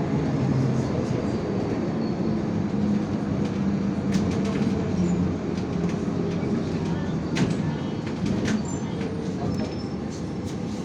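Interior ride noise of a moving city bus: a steady low engine hum and road rumble, with a few sharp rattles from the cabin. The engine note is strongest in the first few seconds, then fades as the bus goes more quietly.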